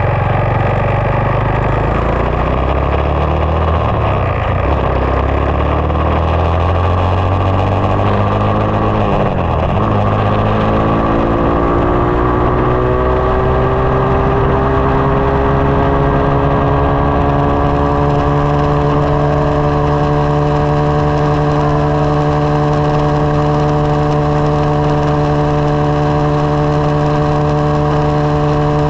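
SSR 189 dirt bike's single-cylinder four-stroke engine running. Its pitch wavers and dips about a third of the way in, then rises and holds steady.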